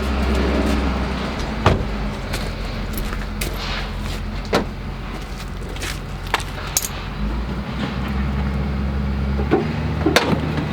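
A vehicle engine idling steadily, with a few sharp clicks or knocks now and then.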